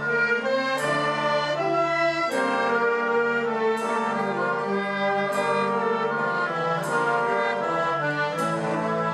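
Brass band music: full sustained brass chords, with a sharp crash about every second and a half keeping a slow beat.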